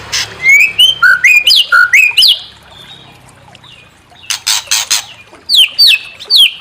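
White-rumped shama (murai batu) singing: loud sharp clicks mixed with quick rising and falling whistled notes, a pause of about two seconds, then another run of clicks and falling whistles.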